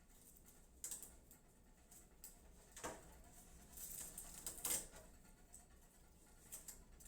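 Faint scattered clicks and rustling of hands handling computer parts, with a few louder knocks about three and almost five seconds in.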